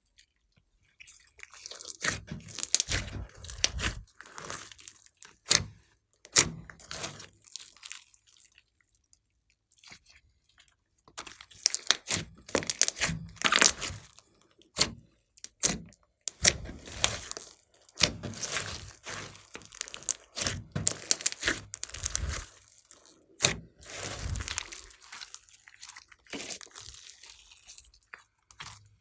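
Slime mixed with clay being squeezed and kneaded by hand, giving irregular bursts of crackling, sticky squishing with short pauses between.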